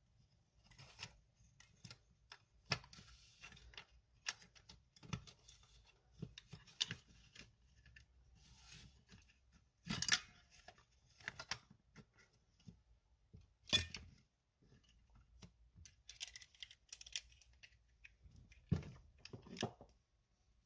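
Irregular clicks, taps and short scraping noises of small hard parts being handled, typical of plastic parts of a cordless stick vacuum being worked on by hand, with two louder sharp knocks about ten seconds in and near fourteen seconds in.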